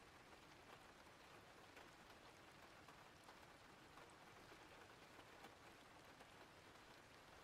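Faint, steady rain ambience: an even hiss with scattered small drop ticks.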